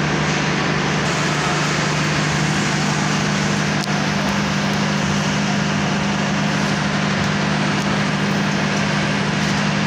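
Industrial machinery running steadily: an even mechanical noise over a constant low hum, as from a conveyor's electric motor and gearbox at work.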